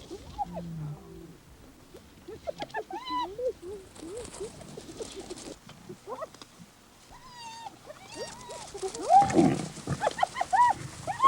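Spotted hyenas calling at a lion kill: many short yelps that rise and fall in pitch, coming faster and louder in the second half. A lion gives one loud low growl about nine seconds in.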